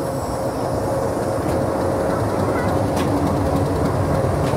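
Passenger express coaches rolling slowly over the track, heard from an open coach door: a steady rumble of wheels on rail, with a sharp click about every second and a half.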